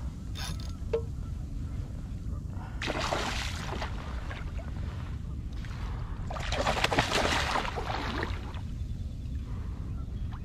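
A hooked bluefish splashing at the water's surface beside a kayak in two bursts, the second longer and louder, over a steady low rumble of wind on the microphone.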